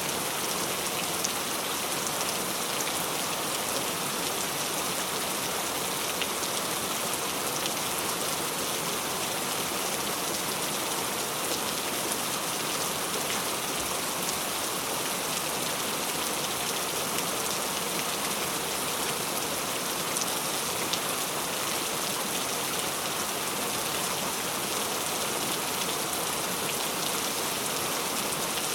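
Heavy rain pouring steadily, a dense hiss of drops hitting surfaces with tiny individual drop clicks throughout.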